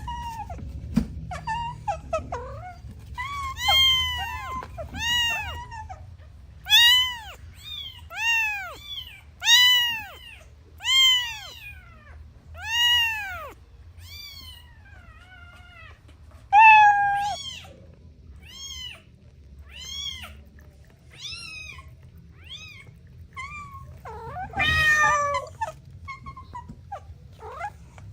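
Kittens meowing repeatedly, a string of high-pitched rising-and-falling mews about one a second, with a rougher, longer cry near the end.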